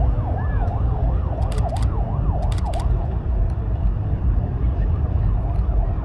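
A siren in fast yelp mode, its pitch sweeping up and down about three times a second, fading out about halfway through, over a steady low rumble of engines and wind. A few sharp clicks are heard in the first half.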